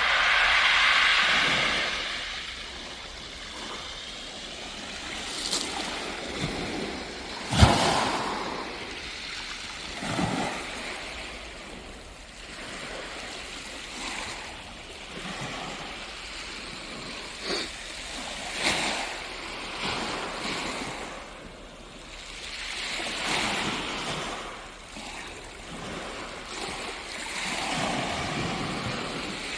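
Surf washing onto the beach, rising and falling in swells every few seconds, with a few sharp knocks, the loudest about eight seconds in.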